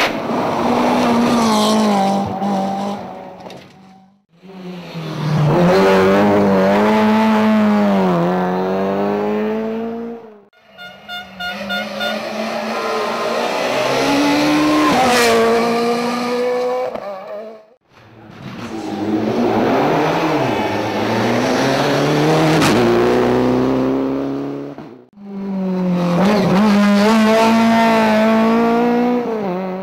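Rally cars driven hard on a special stage, five separate passes cut one after another. Each engine revs up and drops back through the gears, with some tyre squeal.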